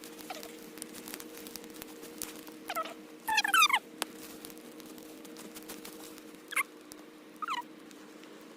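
Brush pile of blackberry vines and yard debris burning, crackling with many sharp irregular pops. Five short squeaky calls, each sliding downward with a fast wobble, stand out louder over the crackle, the longest about a third of the way in.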